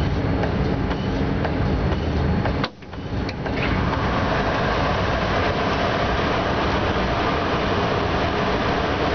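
Steady running noise heard from inside a locomotive cab at about 90 km/h: wheels rumbling on the rails, with faint clicks early on. The sound drops away sharply just under three seconds in and builds back within about a second.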